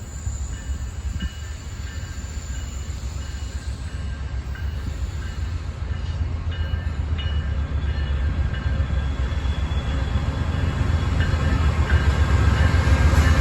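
Norfolk Southern diesel locomotive leading a train as it approaches, its low rumble growing steadily louder.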